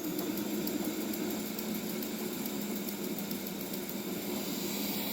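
bObsweep PetHair SLAM robot vacuum running and cleaning: a steady hum from its suction motor and brushes.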